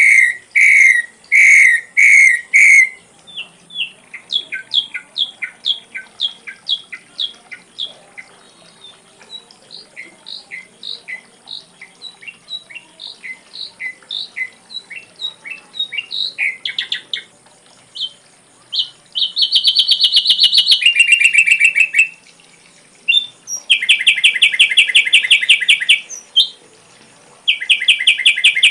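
Ashy drongo singing: a few loud repeated whistled notes at the start, then a long run of shorter ringing notes, then several fast buzzy trills in the second half. A faint steady high-pitched tone runs underneath.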